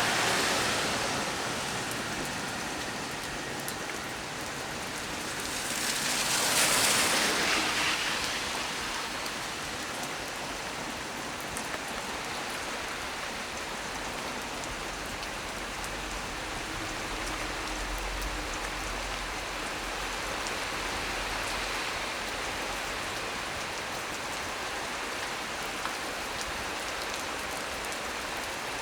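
Heavy rain falling steadily on tree leaves, with a brief louder swell about six seconds in and a faint low rumble around the middle.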